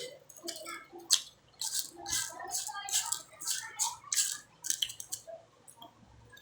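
Close-up mouth sounds of a person eating mango: irregular wet chewing and smacking, a rapid run of short clicks.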